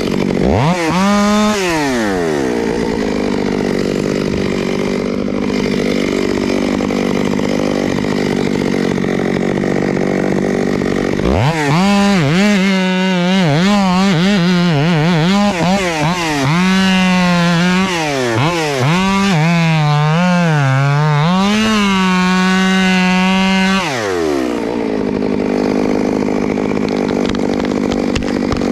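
Two-stroke chainsaw running at low speed, revved briefly about a second in. From about 11 seconds it runs at full throttle for about twelve seconds while cutting wood, its pitch dipping and recovering repeatedly as the chain loads up in the cut, then it drops back to a lower steady note.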